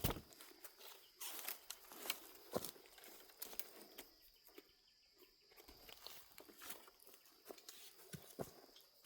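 Scattered rustling and crackling of dry fallen leaves and twigs, in irregular sharp snaps and short rustles, with a few louder cracks in the first few seconds.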